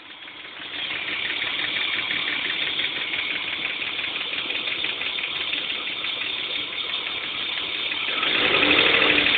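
BMW M50TU 2.5-litre straight-six engine running with a fast, even clicking from the engine, which the owner cannot explain. It grows louder near the end.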